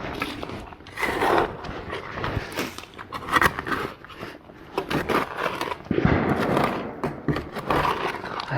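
Irregular scraping and crunching in gravel, in short bursts of a second or less, with a few sharp clicks between them.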